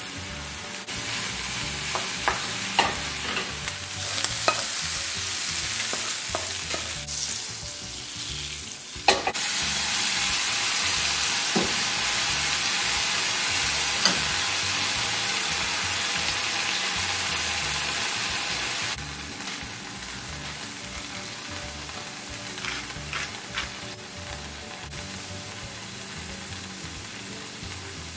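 Food frying in skillets on a gas stove: a steady sizzle, with clicks and scrapes of a wooden spatula stirring ground meat. The sizzle gets louder about nine seconds in, with chopped peppers and butter frying, and drops back about ten seconds later.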